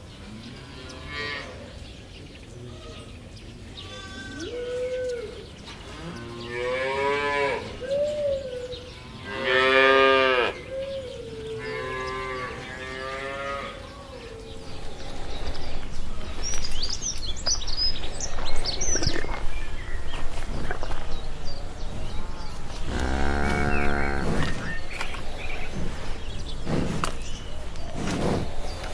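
Cattle mooing: a run of about five drawn-out moos over the first half, the loudest about ten seconds in, then a single loud moo near the end. Brief high chirps sound in between.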